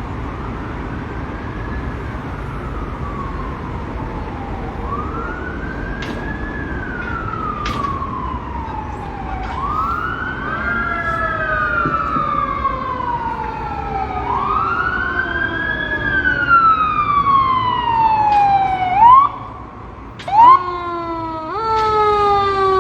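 Emergency vehicle siren in wail mode, rising and falling about every four to five seconds and growing louder as it approaches. Near the end come two loud short blasts, then the siren switches to a faster, choppier falling pattern.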